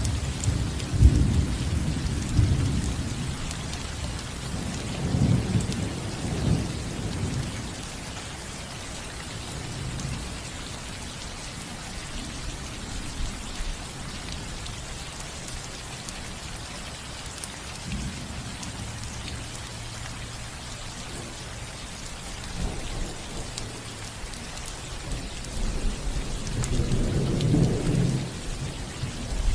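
Steady rain falling on a roof, with low thunder rumbling through the first several seconds and rolling in again near the end.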